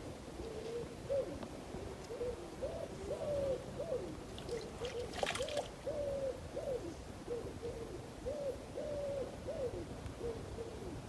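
Bird calls: a steady run of low, short cooing or hooting notes that rise and fall. A brief crackle comes about halfway through.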